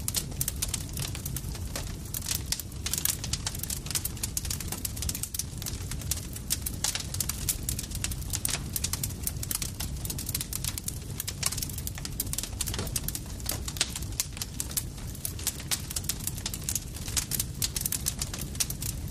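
Campfire crackling, with many sharp irregular pops and snaps over a steady low rumble from the burning wood.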